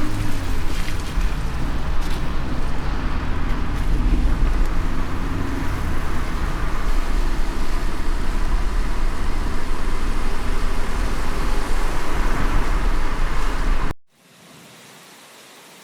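Heavy, steady rain with a deep low rumble under it. About 14 seconds in it cuts off abruptly, and a much quieter, lighter rain hiss follows.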